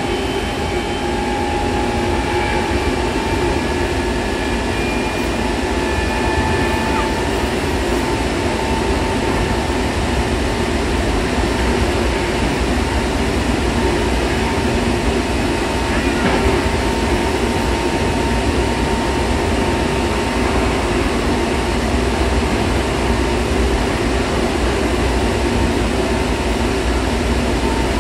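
Hankyu Kobe Line electric train running at speed, heard from inside the carriage beside the doors: a steady rumble of wheels on rails with a thin, steady whine above it.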